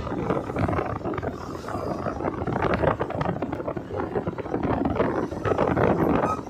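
Wind buffeting the microphone of a moving motorcycle, a rough, uneven rush with road and traffic noise beneath it.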